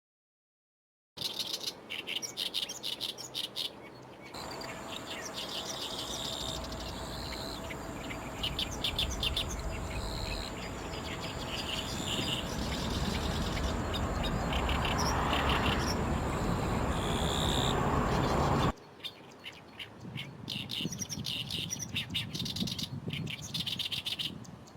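Oriental great reed warbler singing: bursts of fast, grating, repeated notes. From about four seconds in, a loud rushing noise with a steady whine, typical of a jet aircraft, swells under the song and cuts off abruptly about three-quarters of the way through.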